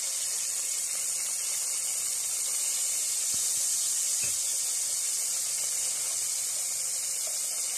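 Sliced onions, whole spices and ginger-garlic paste frying in hot oil in a pot, sizzling with a steady hiss.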